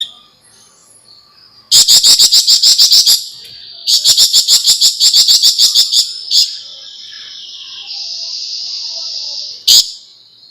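Javan fulvetta (flamboyan) singing: two fast rattling series of loud high notes, each about nine notes a second, then a high buzzing trill lasting about three seconds, closed by one sharp note near the end.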